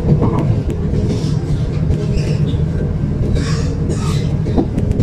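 Dutch Sprinter commuter train running along the track, heard from inside the carriage: a steady low rumble of wheels and running gear, with a couple of short spells of higher hiss about three and a half seconds in.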